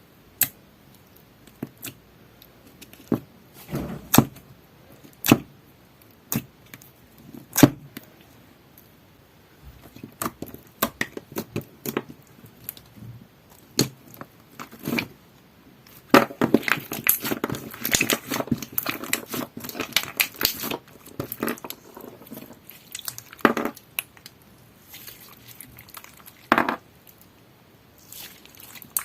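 Clear crunch slime with heart-shaped "ice" bits being pressed and squeezed by hand: scattered sharp pops and clicks, a dense run of crackling about halfway through, then a few more pops near the end.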